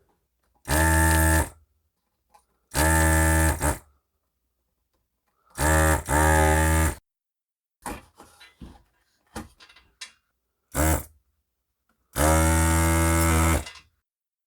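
Electric desoldering tool's vacuum pump buzzing in short bursts of about a second each, switched on and off about five times, with a longer burst near the end, as it sucks solder off circuit board joints. Faint taps of the tool on the board come between the bursts.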